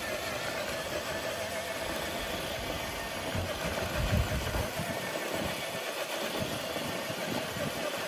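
Electric motor and gears of a Traxxas TRX-4 RC crawler truck whining steadily under load as it drags a dead-weight pull sled, with some low rumbling about halfway through.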